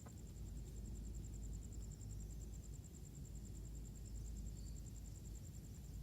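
An insect trilling steadily in fast, even high-pitched pulses, faint, over a low background rumble.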